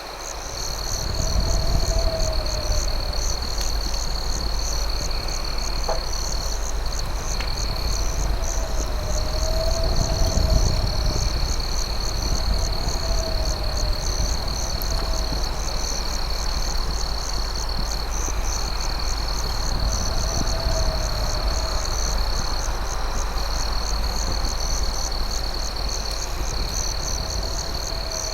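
Night chorus of crickets trilling steadily and high, with pulsing chirps above them. Lower warbling calls repeat every few seconds over a low, steady rumble, and there are a few sharp pops, which are campfire crackles.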